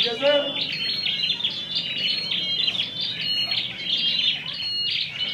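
Caged prinias (prenjak) singing over one another: rapid high chirps and trills, dense and unbroken.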